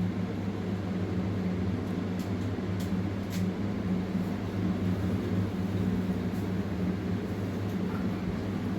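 A steady low mechanical hum with a few faint high ticks between two and three and a half seconds in.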